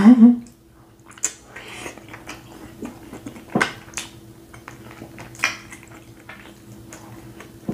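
Close-miked chewing of a sauce-coated boiled egg: soft wet mouth smacks and clicks every second or so, the sharpest about three and a half seconds in, over a faint steady hum.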